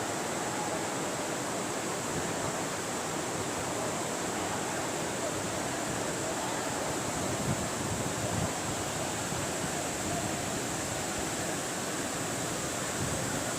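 Agaya Gangai waterfall, a steady rushing of falling water.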